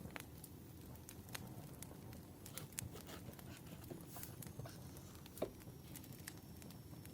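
Burning firewood crackling, with faint irregular pops and one sharper pop about five and a half seconds in.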